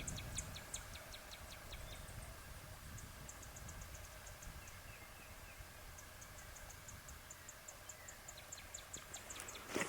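Faint outdoor quiet with a small bird giving fast runs of high ticking notes, about six or seven a second, in three runs.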